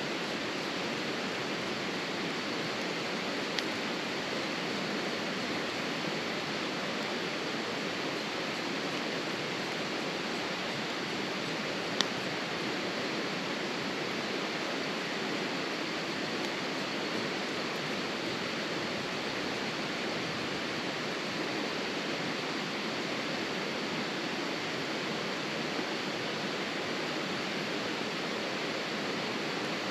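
Steady, even rushing noise, like running water, with one sharp click about twelve seconds in and a fainter click near four seconds.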